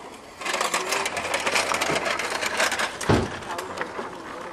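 Toy trucks being played with in dirt: a rapid rattling, scraping clatter, with a thump about three seconds in.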